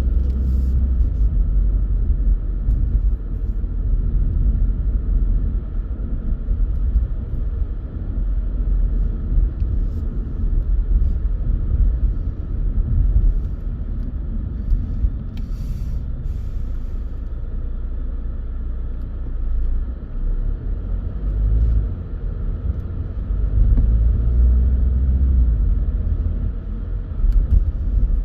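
Low, uneven rumble of a car driving on a country road: road and engine noise, with a few faint knocks, one near the start and a couple in the middle.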